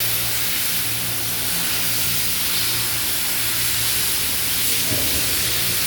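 Mitsubishi Lancer EX's 1.6-litre 4A92 four-cylinder engine running steadily at idle, heard as an even hiss over a low steady hum.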